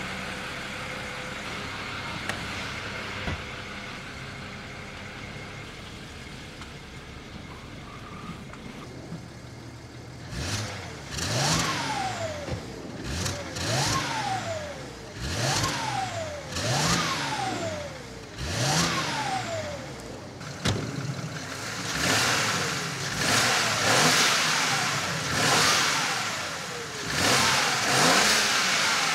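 BMW 335i wagon's N54 twin-turbo straight-six, through its newly built quiet sleeper exhaust, runs steadily and softly for about ten seconds. Then it is revved again and again, about eight quick revs, each rising and falling in pitch.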